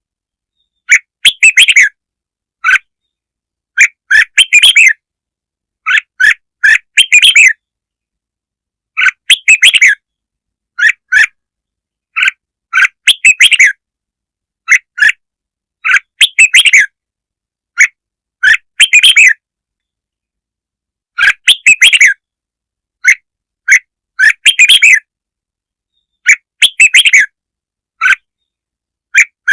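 Red-whiskered bulbul song used as a lure call: short chirping phrases repeated every two to three seconds, with clean silence between them.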